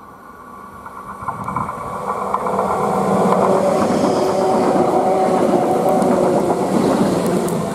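Red electric multiple-unit passenger train approaching and passing close by. The rumble and clatter of its wheels on the rails grow over the first few seconds, hold loud with a steady hum, and begin to fade near the end.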